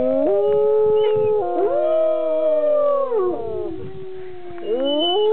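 A dog and a person howling together, two voices overlapping at different pitches. Each howl rises, holds a long note and falls away; after a lull around four seconds in, a new howl rises near the end.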